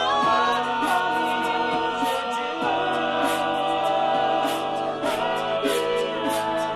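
All-male a cappella group singing a song in close harmony, several voices holding and moving chords together over a steady percussive beat.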